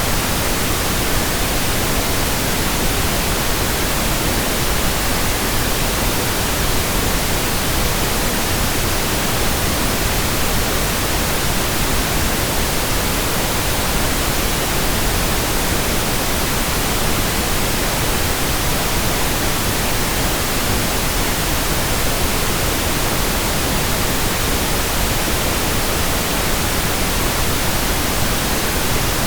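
Pink noise: a steady, even hiss with no pitch or rhythm, spread across the whole range from deep rumble to high hiss.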